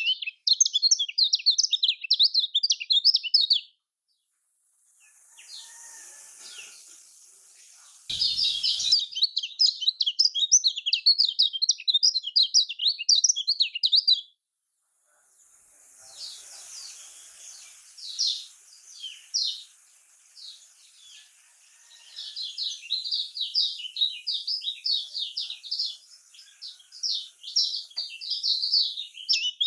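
Kecial kuning white-eye singing a fast, dense, high twittering song in spells of several seconds, with short pauses and fainter scattered chirps between them.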